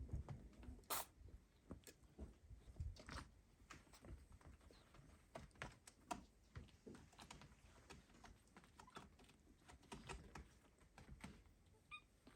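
Faint, irregular light taps, clicks and scratches of kittens' paws and claws on surfaces as they play, with a brief high chirp near the end.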